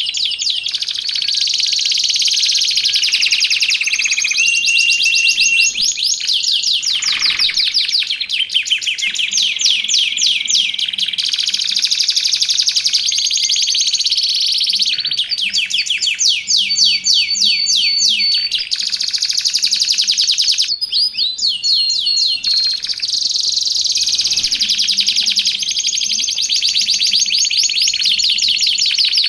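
Domestic canary singing without a break: long, fast trills and rolls, with a few held whistled notes in between.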